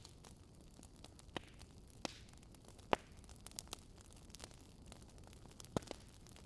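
Wood campfire crackling: a faint steady hiss full of small snaps, with a few louder pops, the loudest about three seconds in.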